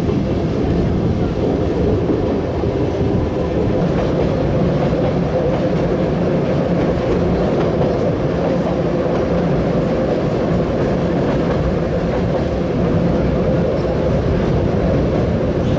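The Train Jaune, a metre-gauge electric train, running along the track, heard from on board: a steady, even rumble of wheels on the rails.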